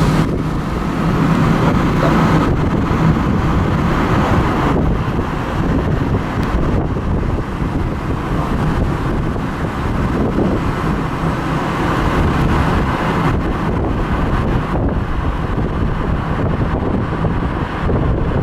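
Typhoon wind buffeting the microphone: a loud, rushing noise that swells and eases in gusts.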